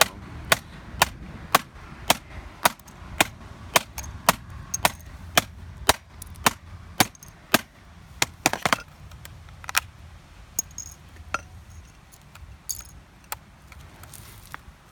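Repeated sharp blows striking an iBook clamshell laptop's keyboard, about two a second in a steady rhythm, knocking the keys off. After about nine seconds the blows come further apart and lighter.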